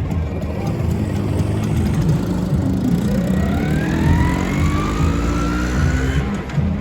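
Two-stroke scooter engines running. From about three seconds in, one revs up and its pitch climbs steadily as it accelerates away.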